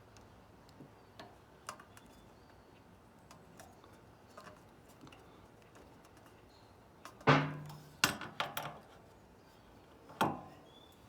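Scattered light clicks and a few sharp metallic clanks from tools and generator parts being handled. The loudest clank comes about seven seconds in and rings briefly, followed by a quick run of knocks and one more clank near the end.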